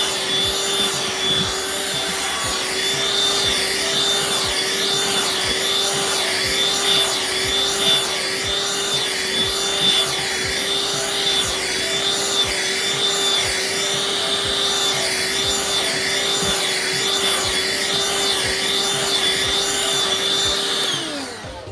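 Vacuum cleaner motor running steadily with a high whine, its sound wavering in a regular rhythm as it is worked over a cat's fur. Near the end it is switched off and winds down, its pitch falling.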